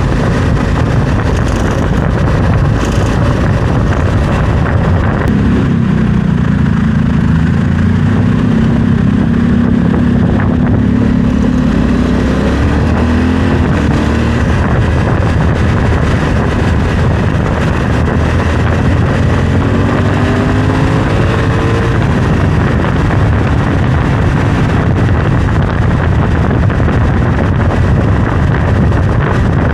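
Honda Africa Twin CRF1100L's parallel-twin engine running under way, buried in heavy wind noise on the microphone. Its pitch climbs twice, about twelve seconds in and again around twenty seconds, as the bike picks up speed.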